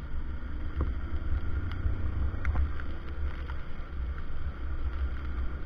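Wind buffeting the microphone: an unsteady low rumble, with a few faint clicks.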